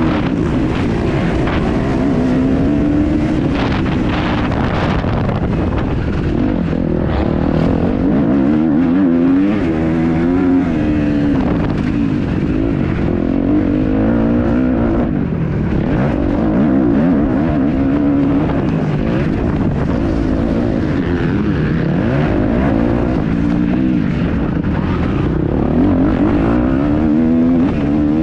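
Kawasaki KX250F single-cylinder four-stroke motocross engine revving up and falling back again and again as the bike is ridden round the track, the pitch climbing and dropping every couple of seconds.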